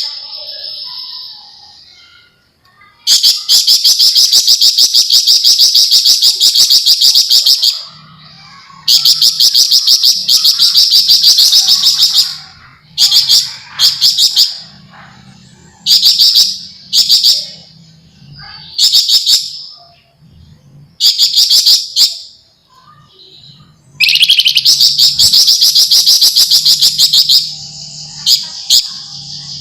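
Javan fulvetta (flamboyan) giving fast, dense chattering trills: several long runs of rapidly repeated high notes lasting a few seconds each, broken up by short bursts.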